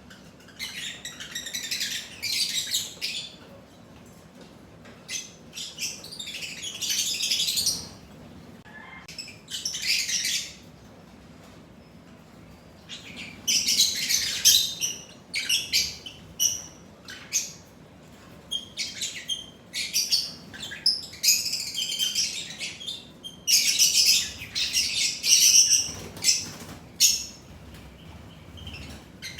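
Lovebirds chattering in repeated bouts of shrill, high-pitched chirps, each bout a second or two long with short quiet gaps between.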